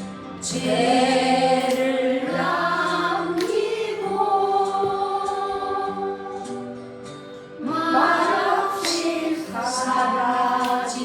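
Korean song playing: sung vocal phrases over backing music, a new phrase beginning about half a second in and another near the end.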